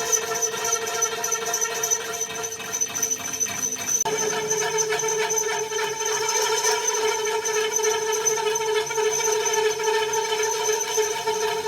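Steady high-pitched mechanical whine holding several fixed tones, which shifts slightly and gets stronger about four seconds in.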